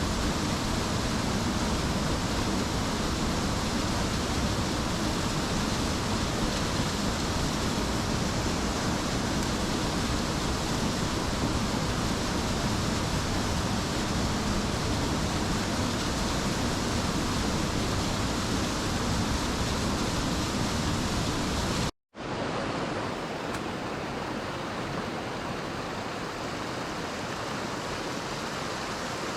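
Mountain stream rushing over rocks, a steady loud flow of water. About two-thirds of the way through it cuts out for an instant and carries on a little quieter and lighter in the low end.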